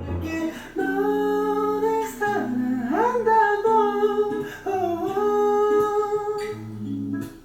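Background music: a voice humming a slow, gliding melody over plucked guitar.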